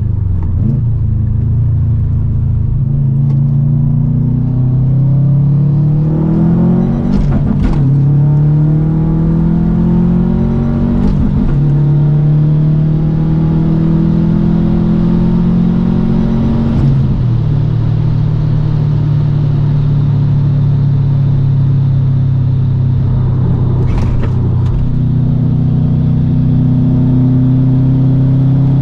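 2008 Subaru STI's turbocharged 2.5-litre flat-four running through an Invidia catted downpipe and N1 cat-back exhaust, pulling through the gears. The revs climb, drop at an upshift about seven seconds in, climb again, drop at another shift about seventeen seconds in, hold steady for several seconds, then build again near the end.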